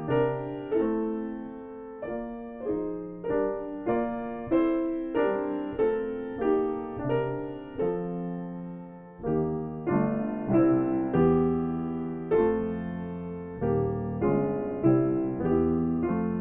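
Solo piano playing a slow, gentle piece, notes struck about twice a second and each left to fade. Low bass notes join about ten seconds in.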